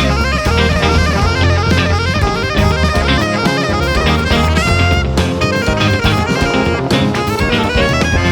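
Jazz quintet of saxophone, piano, electric guitar, bass and drum kit playing live, with the saxophone running quick lines over the drums and bass.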